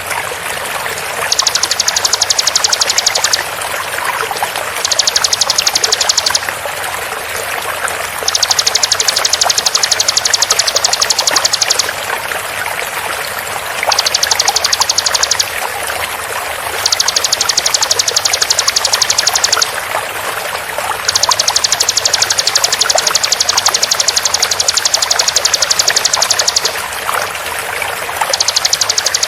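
Bar-winged prinia (ciblek) singing its rapid-fire song in about seven bursts of very fast, high repeated notes, each burst lasting a few seconds with short pauses between. Under it runs a steady sound of running water.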